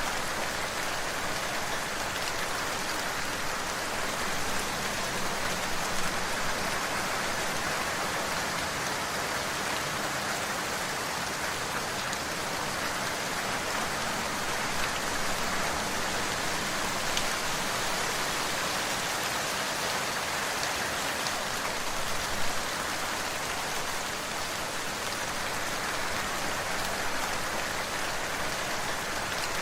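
Steady rain falling on a surface: an even hiss with a few louder drops standing out now and then.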